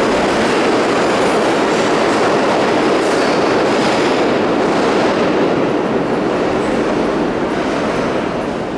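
Pullman-Standard R46 subway train running through the station, with loud steady wheel-on-rail rumble. The sound begins to fade about six seconds in as the train pulls away.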